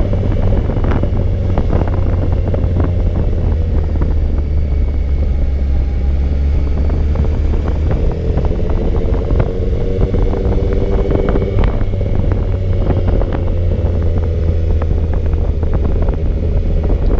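Motorcycle engine running at a steady cruise, its pitch drifting slightly up and down, with wind rush and scattered short clicks over it.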